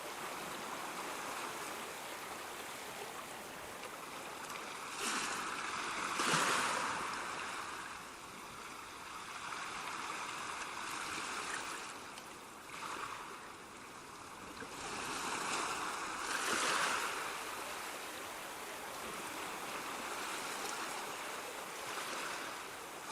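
Ocean waves breaking and washing on shore, a steady hiss of surf with louder surges as waves break, about three times.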